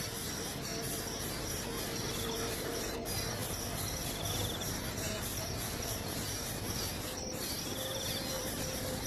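Insects chirring steadily, with a short high trill repeating about every three seconds.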